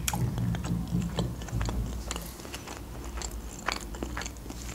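A person chewing and biting food close to the microphone: mouth sounds with many small sharp clicks, the densest in the first two seconds.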